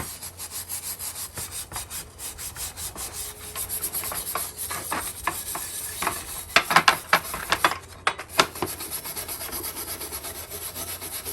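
Rapid back-and-forth scrubbing of a vinegar-soaked dish sponge on the rusty metal of an antique wood stove, lifting off surface rust. The strokes get louder and harsher a little past halfway.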